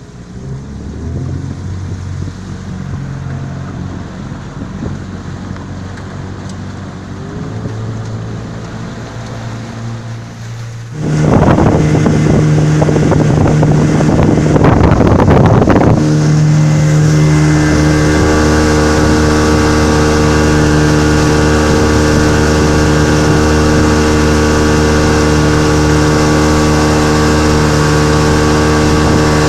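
Suzuki DT30 two-stroke outboard motor running at low speed, then opened up suddenly about a third of the way in. A loud rush of noise follows for several seconds as the boat gets onto the plane. After that the motor holds a steady high-revving note.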